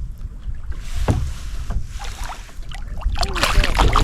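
Wake waves from a passing motorboat slapping and lapping against a kayak hull, with wind rumbling on the microphone. A brief voice-like sound comes near the end.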